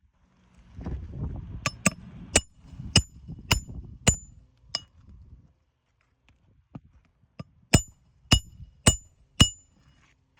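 Hammer driving roofing nails through shingles: a run of seven sharp, ringing metallic strikes a little under a second apart, a pause of a few seconds, then four more. A low rumble of handling noise runs under the first strikes.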